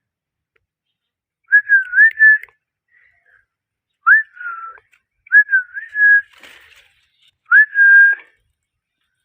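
A parrot whistling four short, clear phrases, each swooping up in pitch and then wavering or holding a level note, with short pauses between them; the last phrase ends on a long held note.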